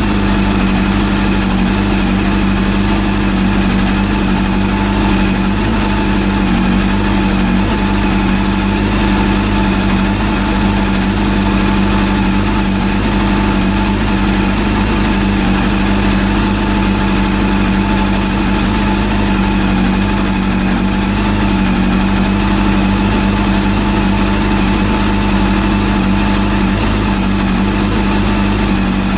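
Rebuilt Honda CB400 inline four-cylinder engine idling steadily, holding an even pitch throughout.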